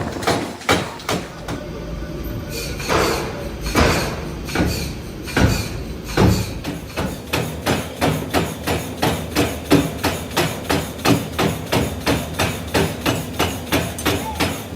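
Repeated hammer strikes on metal, irregular at first and then settling into a steady rhythm of about three blows a second.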